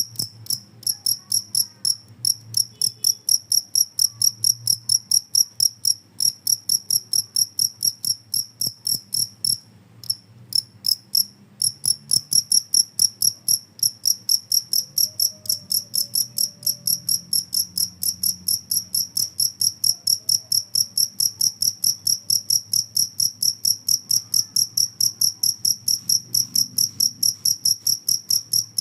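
Field cricket (jangkrik kalung) chirping: a steady train of high, ringing pulses, about three to four a second, with a brief stutter about ten seconds in.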